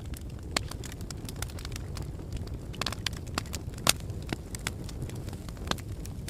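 Wood fire burning in a fireplace: a steady low rumble of the flames with irregular sharp crackles and pops, the loudest just before four seconds in.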